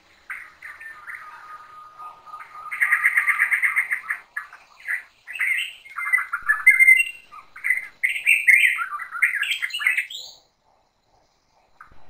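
Forest birds calling and singing, several overlapping: a fast trill about three seconds in, then a run of varied chirps and whistled calls that cuts off about ten seconds in.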